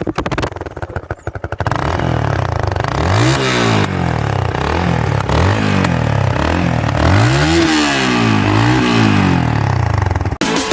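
Yamaha R15 V2 motorcycle's single-cylinder four-stroke engine cranks briefly on the starter and catches about two seconds in. It then idles and is revved up and down several times, blipping the throttle to show off its exhaust note, before cutting off near the end.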